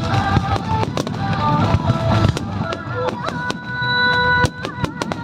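Fireworks bursting and crackling in quick, irregular bangs, heaviest at the start and again near the end, over music with a held, sung-like melody playing along with the show.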